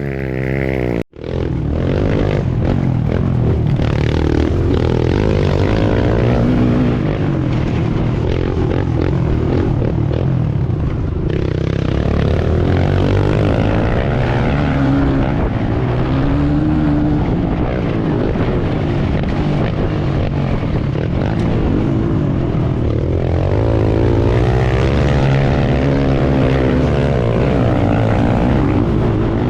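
Pit bike engine being ridden hard, its pitch rising and falling again and again as the throttle opens and closes. A sudden brief gap comes about a second in.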